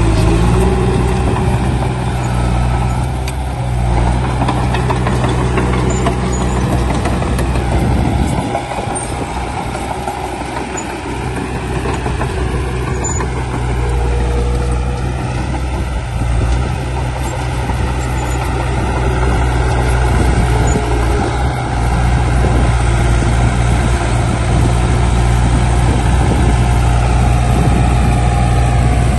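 Heavy diesel engines of earthmoving machinery running. The low engine note drops away about a quarter of the way in, then builds back up and holds steady.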